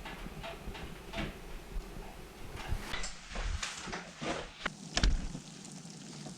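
Handling noises: rustling and a string of knocks, with a heavier thump about five seconds in.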